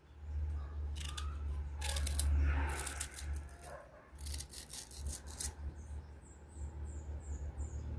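A knife peeling and cutting into a crunchy, firm mango: several clusters of crisp cracking strokes over a steady low rumble. Near the end there is a quick run of about seven short high chirps.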